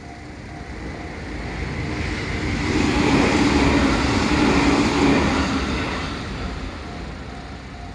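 A train passes over a Japanese level crossing while the crossing alarm dings over and over. The train's rumble, with a steady hum, swells to its loudest about halfway through and fades away, drowning out the bell at its height.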